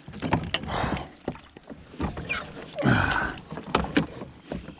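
Irregular knocks, clatters and rustling as a freshly netted bass is handled in a kayak, with two longer whooshing noises, about a second in and about three seconds in.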